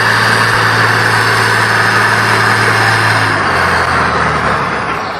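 Off-road truck engine running steadily, its low note dropping about three and a half seconds in.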